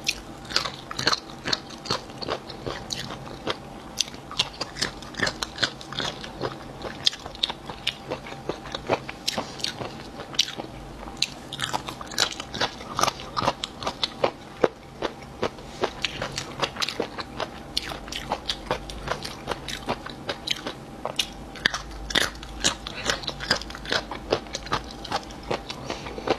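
Close-up crunching and chewing of chicken triangle-bone cartilage with meat on its edge: many short, crisp crunches, several a second, as the very crunchy cartilage is bitten and chewed.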